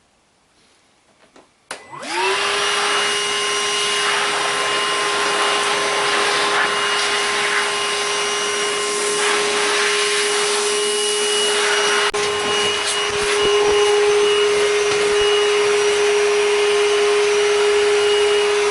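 Milwaukee shop vacuum, set to blow, switched on about two seconds in: its motor whine rises quickly to a steady pitch and runs on evenly. It is blowing air into the exhaust to pressurize it and push smoke out of any leak.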